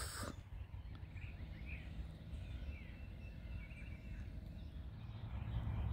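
Quiet outdoor ambience: faint bird chirps over a low, steady rumble.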